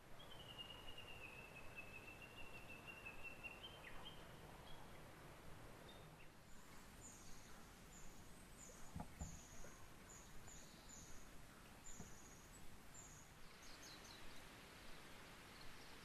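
Faint wild birdsong over a quiet outdoor hiss: one long, slightly wavering high whistle in the first few seconds, then a series of short, very high falling notes about every half second in the middle.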